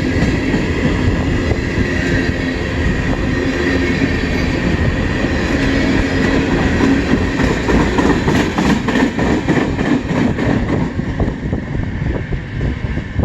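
CN freight train cars rolling past, wheels clattering over the rail joints with a steady metallic ringing from the wheels. The sound eases near the end.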